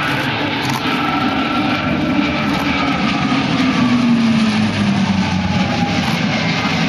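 C-27J Spartan twin-turboprop transport flying a display pass, its Rolls-Royce AE 2100 turboprops and six-blade propellers droning loudly. The engine pitch slides down as it goes by, with the sound loudest about four seconds in.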